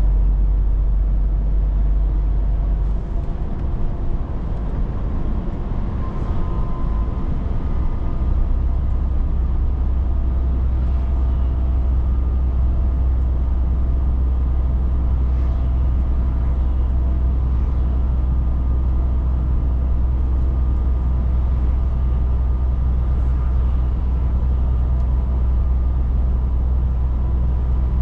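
Scania 500S truck running at a steady pace: a strong, steady low engine drone with road noise. The drone shifts briefly a few seconds in, then settles again.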